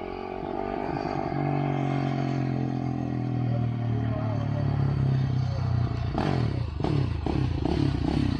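Quad (ATV) engine running, getting louder over the first couple of seconds and then holding steady; from about six seconds in the note turns choppy and uneven.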